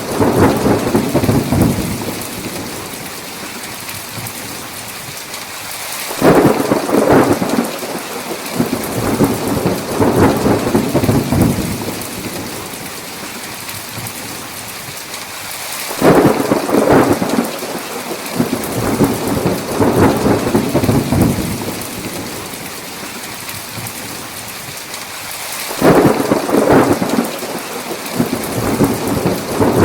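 Thunderstorm: heavy rain falls steadily while rolling thunder peals break out sharply about every ten seconds. Each peal rumbles on for several seconds before fading back into the rain.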